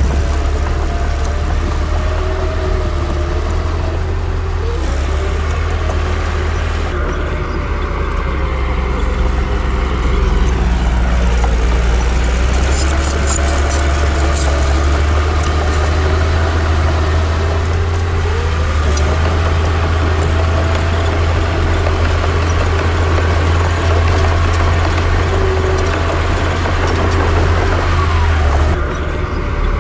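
Komatsu D60 bulldozer's diesel engine running steadily, its pitch gliding up and down as it works, with scattered sharp clicks.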